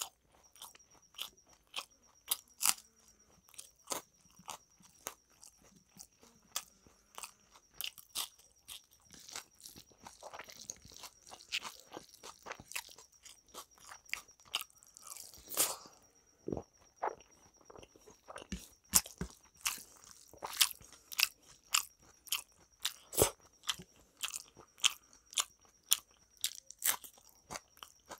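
Close-up chewing of rice and chicken curry eaten by hand: a quick, irregular run of wet smacks and crunchy clicks that grows louder and quicker in the second half.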